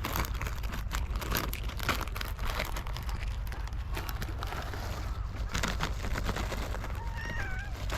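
Cats crunching dry food: irregular crackly clicks and rustling over a steady low rumble, with a faint meow near the end.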